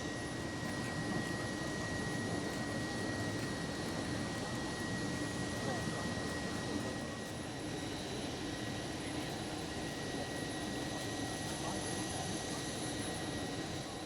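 Steady engine drone with a constant high whine over it, unchanging throughout.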